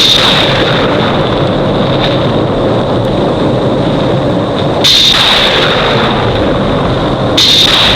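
Film sound effects of a lightning storm: loud continuous rumbling noise, with sudden louder, hissier surges about five seconds in and again near the end.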